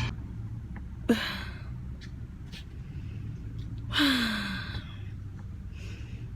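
A person sighing heavily twice, breathy exhales with a falling, groaning voice: a short one about a second in and a louder, longer one about four seconds in. It is the laboured breathing of someone who has overeaten, over a low steady hum.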